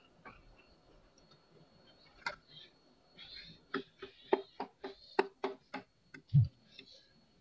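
Close-miked chewing of a soft boiled banana: a run of wet mouth smacks at about four a second through the middle, then a single low thump near the end, the loudest sound.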